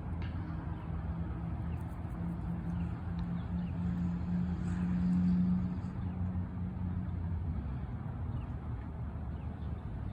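A motor vehicle's engine hum over a steady low outdoor rumble, swelling to its loudest about five seconds in and then fading as it passes. Faint short high chirps are scattered through it.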